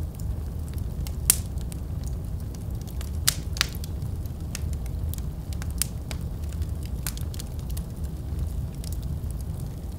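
Wood fire burning in a fireplace: a steady low rumble of the flames with scattered sharp crackles and pops from the burning logs, the loudest about a second in and around three and a half seconds in.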